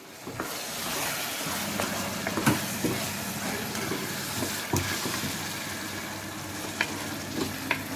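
A wet green paste of ground herbs, onion and tomato sizzling in hot oil in a pressure cooker as a wooden spatula stirs it. A few sharp knocks come from the spatula against the pot.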